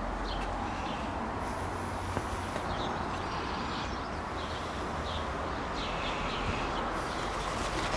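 Outdoor garden ambience: a steady low background rumble with a small bird chirping on and off, about once a second.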